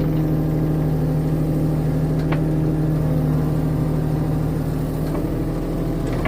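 Mini excavator's diesel engine running steadily, with a light click about two seconds in.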